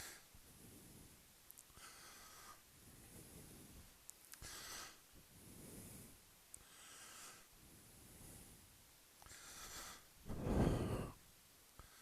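A person breathing in a steady rhythm, about one breath every two and a half seconds, with a louder breath out about three-quarters of the way through.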